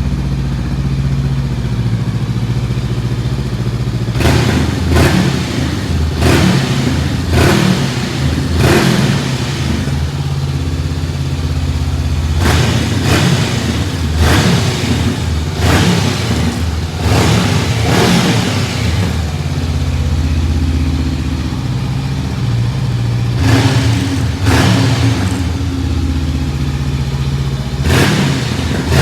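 Honda CB500X parallel-twin engine idling through a LeoVince aftermarket end can with the baffle in, then blipped on the throttle again and again in short sharp revs. The revs come in bursts, with steady idling in between.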